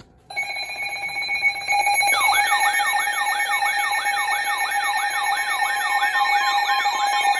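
Weather radio alert alarm: a steady electronic tone starts suddenly, and about two seconds in a repeating siren-like sweep joins it, about three sweeps a second. It signals an incoming weather warning.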